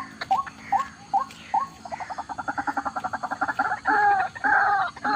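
White-breasted waterhen (ruak-ruak) calling: short notes about two a second quicken into a fast chatter about two seconds in, then give way to loud, drawn-out croaking calls from about four seconds in.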